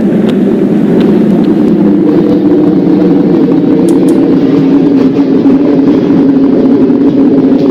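Subway train running along the track: a steady, loud rumble with a few sharp clicks, two close together about four seconds in.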